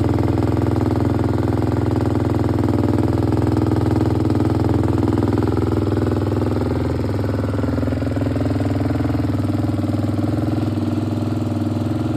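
A KTM off-road machine's engine idling steadily, with a slight dip in level about seven seconds in.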